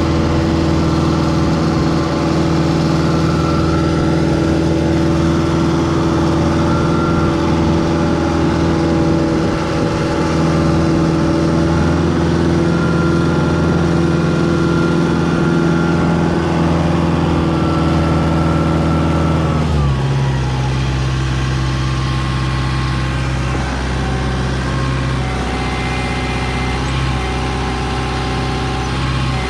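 Kubota M6040 tractor's diesel engine running steadily while clearing snow with the loader bucket; about two-thirds of the way through the engine speed drops to a lower, steady pitch.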